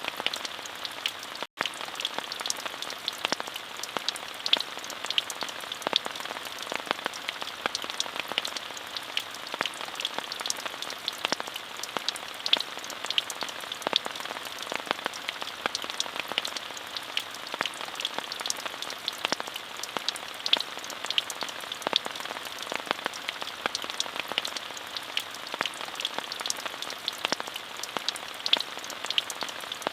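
Steady rainfall: an even hiss with many individual drops ticking through it. The sound cuts out for a split second about a second and a half in.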